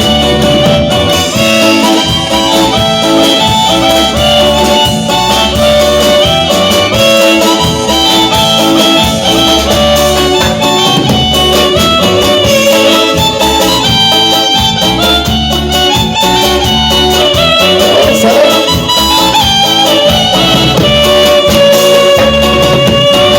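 A regional Mexican band playing dance music, with a steady bass beat under a held melody line.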